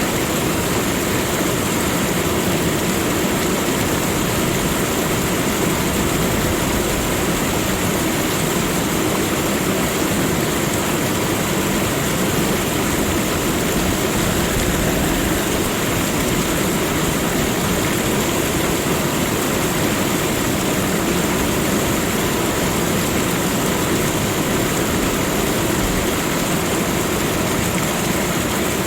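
A waterfall's falling water, a steady, unbroken rush.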